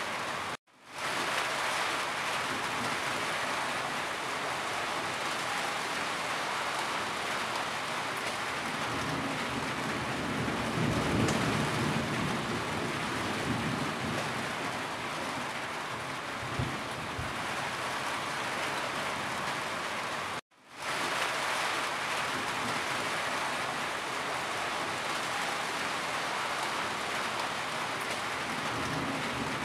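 Heavy rain falling steadily and running off a corrugated roof edge, an even hiss of rain. A low rumble swells near the middle. The sound cuts out to silence twice, about a second in and about two-thirds through, and fades back within half a second each time.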